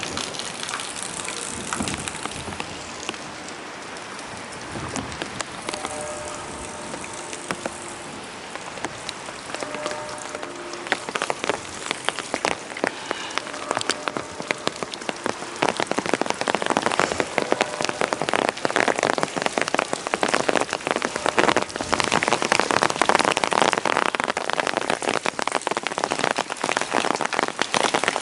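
Rain falling on hard surfaces: a dense patter of drops that grows heavier from about halfway through.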